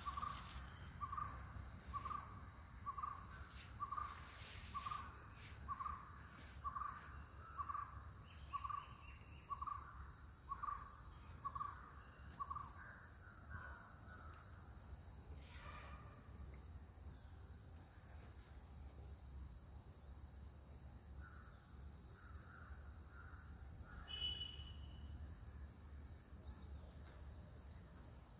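A bird calling one short note over and over at an even pace, about three notes every two seconds, for the first dozen seconds, then only a few fainter scattered calls, with a steady high hum underneath.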